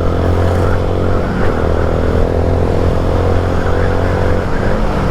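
Motorcycle engine running steadily at an even pitch, with road and wind noise over it.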